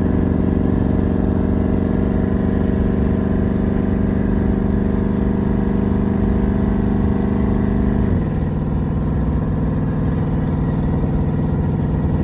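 Twin-turbo limo engine running at a steady speed with a constant drone, dropping to a lower, steady pitch about eight seconds in.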